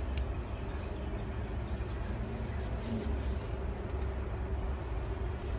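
Steady low rumble of a car engine running close by, which to the listener sounds like a Mustang-type car; it keeps going without letting up. A few faint clicks sit over it.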